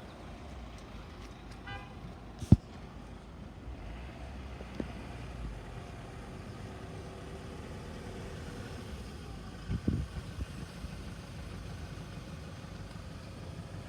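Steady road-traffic background with a vehicle passing, a loud sharp knock about two and a half seconds in, and a brief high chirp just before the knock.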